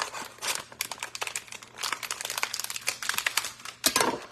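Crinkling and crackling of the plastic cover being pulled off store-bought frozen pie crusts in foil tins, in quick irregular crackles with a louder burst near the end.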